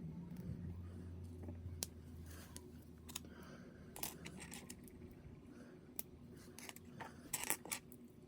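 Small plastic model-kit parts being handled and snapped together, giving scattered sharp clicks and a few short rustles, with a faint low hum during the first few seconds.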